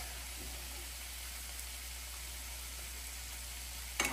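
Shrimp and ground turkey frying in pans on a gas stove: a steady gentle sizzle, with one sharp knock near the end.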